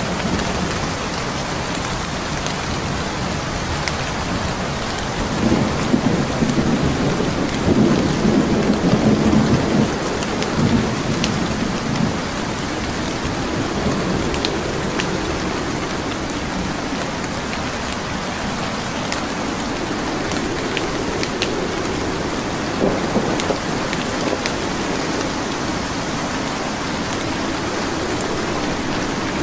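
Steady rain hissing together with a wood fire in a fireplace, its logs giving off scattered sharp crackles. Low rumbling swells up from about five to ten seconds in and again a little past twenty seconds.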